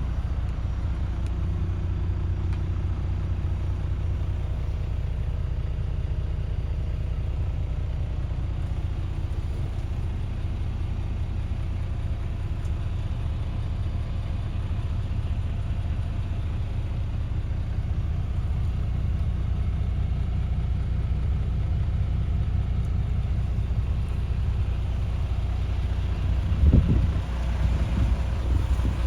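The 12.4-litre straight-six diesel of a MAN TGX 18.540 tractor unit idling, a steady low rumble. Near the end there is a single thump.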